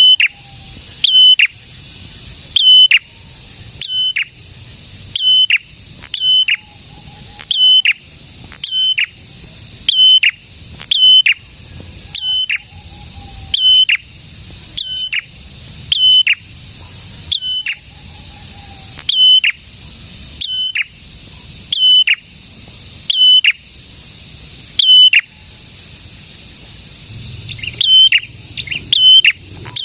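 A prenjak songbird calls a sharp, high note that drops abruptly, repeated at an even pace of about three notes every two seconds over a faint steady high hiss. Near the end it pauses, then gives a quicker run of short notes.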